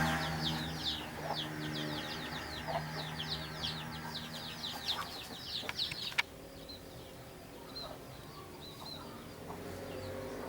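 Munias chirping rapidly, a dense run of short falling notes several a second, which stops abruptly with a sharp click about six seconds in; after that only a few faint, scattered chirps remain.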